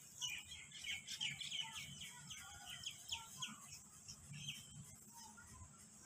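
Faint bird chirps: a quick run of short, falling chirps at about four a second, thinning out to a few scattered chirps after about three and a half seconds.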